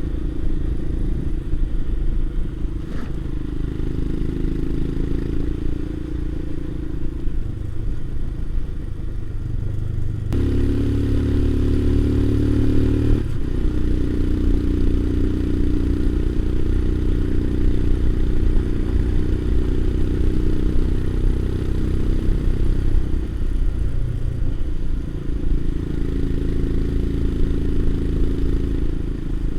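Motorcycle engine running steadily under way, its note shifting up and down as the revs change, with a louder burst of a few seconds about ten seconds in.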